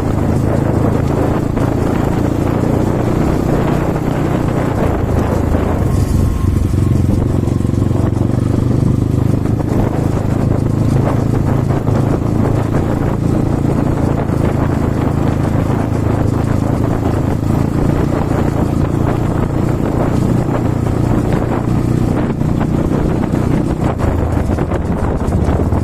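Kovi Advance 300 dirt bike's single-cylinder engine running steadily, warming up before an oil change, with a change in its sound about six seconds in.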